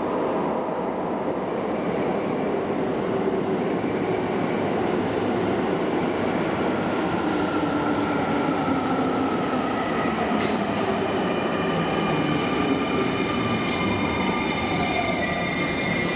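Keio electric train running through a subway station, its rumble steady while a motor whine falls in pitch as it slows. A high, steady squeal comes in near the end.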